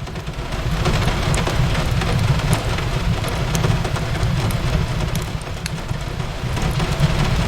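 Steady rain as a dense hiss over a low rumble, mixed with a fireplace crackling in scattered sharp pops about once a second.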